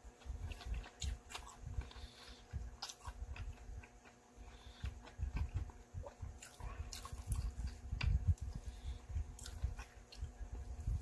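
A person chewing a mouthful of Korean potato pancake (gamjajeon) close to the microphone, with lip-smacking and irregular low thumps and short clicks.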